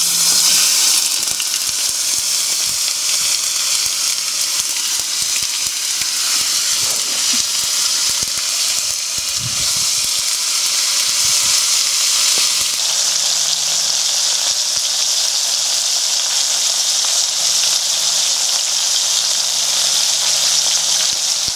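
Tomato pieces frying in hot rendered salo (salted pork fat) in a frying pan, a loud sizzle that starts suddenly as they go in and then runs on steadily.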